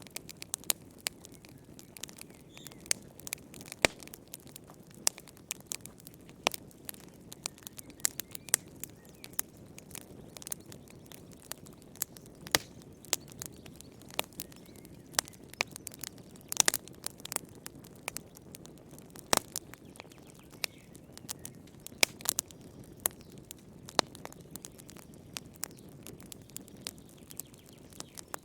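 Wood fire in a fireplace crackling, with irregular sharp pops and snaps over a low steady hiss of the flames.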